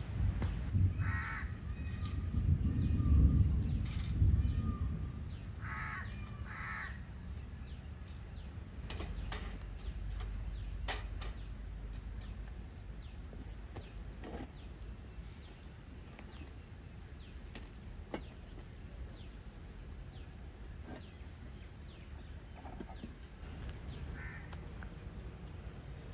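A bird giving a few short harsh calls: one about a second in, two close together around six seconds, and a fainter one near the end, over a low rumble in the first few seconds.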